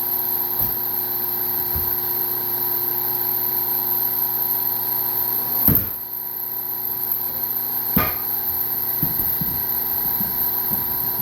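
Motor-driven hydraulic log splitter running with a steady hum of several tones. A sharp crack comes about six seconds in, and a smaller knock follows about two seconds later.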